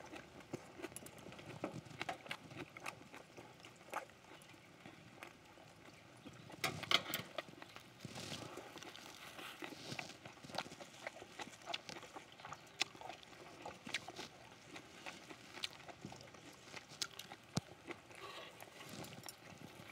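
Close chewing and mouth clicks of people eating grilled pork and leaf wraps, as irregular small wet clicks and smacks.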